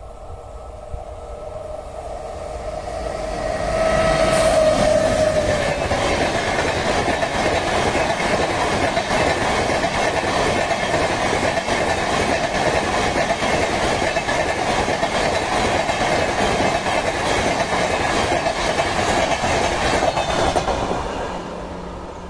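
Express passenger train approaching and passing close by at speed. A rumble builds for about four seconds, with a brief tone dropping in pitch as the locomotive goes by, then a steady rattle and clatter of the coaches' wheels on the rails runs on for some fifteen seconds and fades near the end as the last coach recedes.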